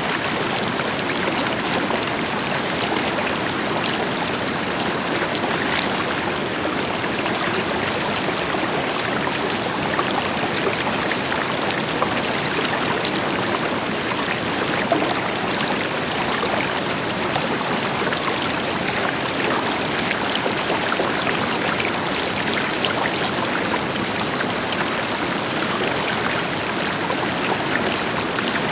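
River water flowing steadily over rocks, a continuous rush with small splashes and trickles throughout, and the deeper wash of a waterfall in the background.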